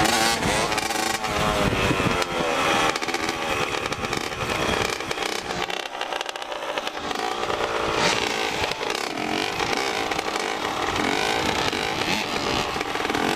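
Dirt bike engine running and revving, its pitch rising and falling again and again as it rides.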